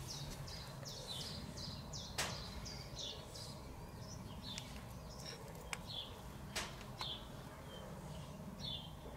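A songbird calling: a quick run of short, high, falling chirps over the first few seconds, then scattered single chirps. A few sharp clicks break in, the loudest about two seconds in.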